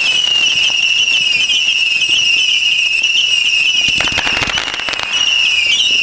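Fireworks going off: a continuous high, wavering whistle, with a cluster of sharp cracks about four seconds in.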